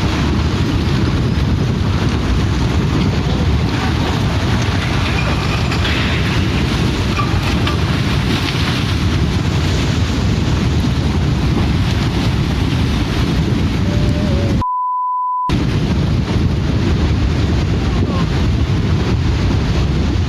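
Strong wind buffeting the microphone with rushing water noise, loud and unbroken. About fifteen seconds in, the noise cuts out for under a second and a steady censor bleep sounds in its place.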